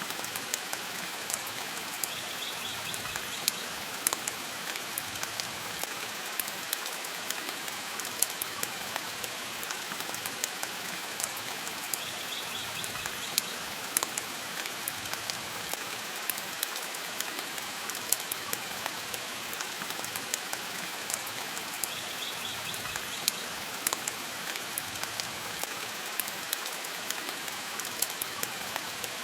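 Steady rain with scattered sharp pops and crackles from a wood fire in a fireplace, and a faint short high sound about every ten seconds.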